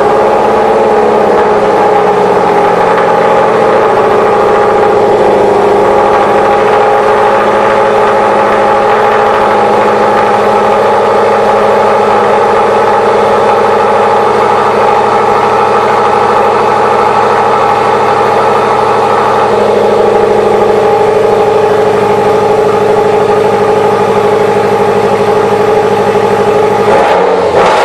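Subaru Impreza WRX STI's turbocharged flat-four engine idling steadily through its exhaust, moments after being started.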